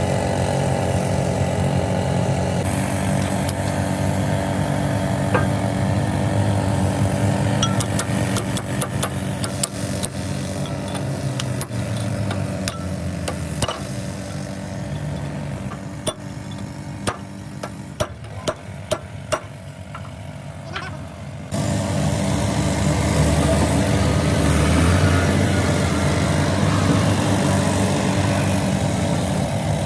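An engine running steadily with a low drone. In the middle comes a quieter stretch with a run of sharp knocks.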